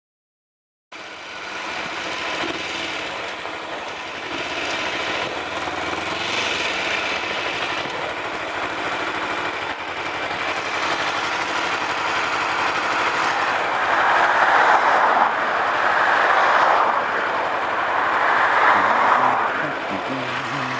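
Kawasaki EL250 motorcycle on the move: steady wind and road noise over the running engine, swelling in waves in the second half.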